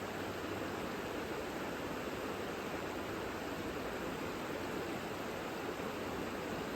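Savica river water flowing, a steady unbroken rushing.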